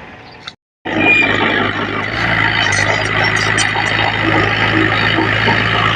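Heavy diesel engine of earthmoving machinery running steadily and loudly. The sound cuts out completely for a fraction of a second just under a second in, then the engine carries on unchanged.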